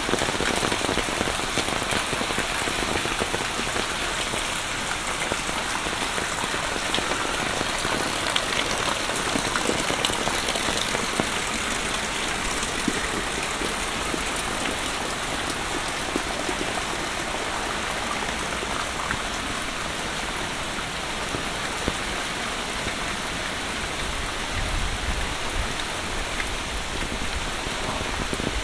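Steady monsoon rain falling, a dense hiss scattered with many close, sharp raindrop ticks.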